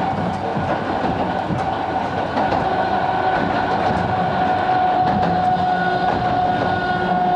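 Sangi Railway 270 series narrow-gauge electric train running along the line: a steady high whine that sags slightly in pitch, over a continuous rumble with scattered clicks from the wheels on the track.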